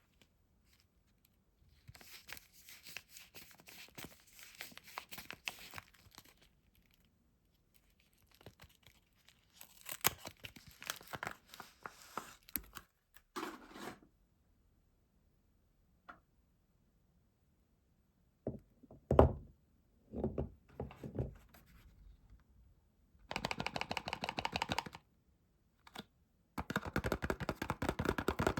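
Soap bar wrappers being unwrapped and torn open, with crinkling and tearing of the packaging, a few thuds as bars are handled, and two runs of quick rhythmic tearing near the end.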